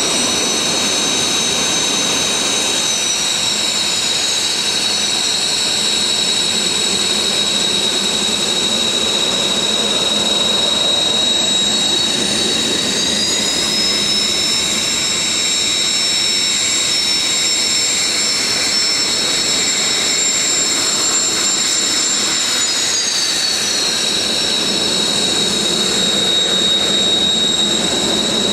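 Military jet engines running on the ground at taxi power: a steady high whine over a broad rush, with another engine's whine rising about thirteen seconds in and falling again about ten seconds later as it spools up and back down.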